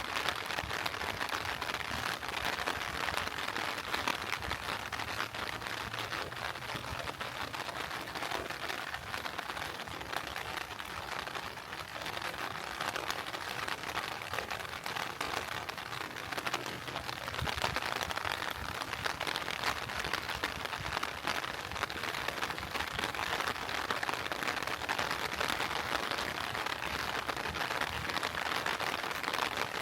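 Steady heavy rain falling: a dense, even hiss with many fine drop ticks.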